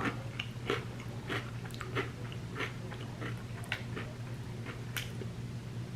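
Close-up chewing of crunchy Hot Cheetos smothered in queso and sour cream: a run of sharp crunches about every two-thirds of a second.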